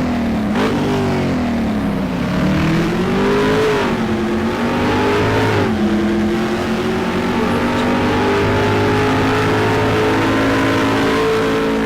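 Car engine accelerating hard through the gears: the pitch climbs and drops sharply at two upshifts, then holds high and steady as the car runs at speed.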